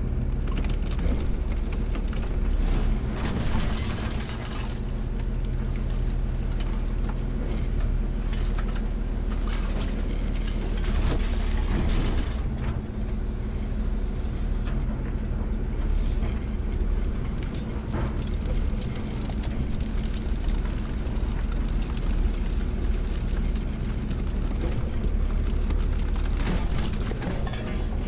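Automated sideload garbage truck's diesel engine running steadily, heard from the cab. A few short knocks and hisses break in now and then.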